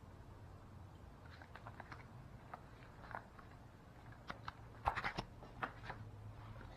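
Scattered light clicks and taps over a faint steady low hum, the loudest cluster about five seconds in.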